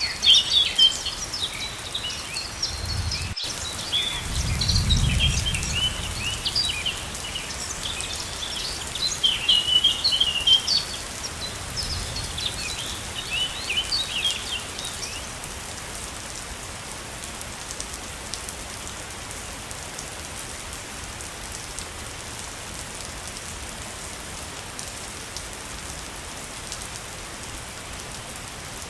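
Steady rushing of a waterfall, with small birds chirping busily over it until about halfway through, after which only the water remains. A brief low rumble comes a few seconds in, and the sound cuts out for an instant just before it.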